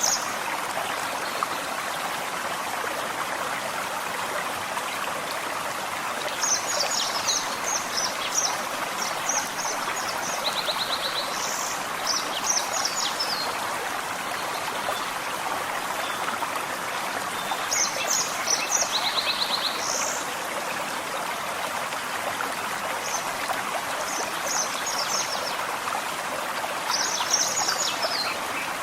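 Gentle forest stream flowing steadily, with songbirds singing short bursts of high chirps and trills several times over it.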